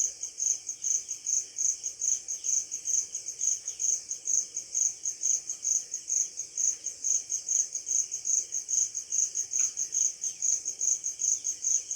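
A cricket chirping steadily in an even, high-pitched rhythm of about three to four chirps a second.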